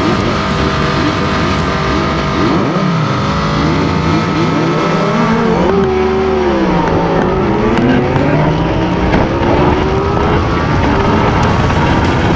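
Inline-four sport motorcycle engines, a Yamaha MT-10 crossplane and a Kawasaki Z900, revving hard under acceleration. Their pitch climbs and falls with the gear changes, with a clear drop and climb again about halfway through.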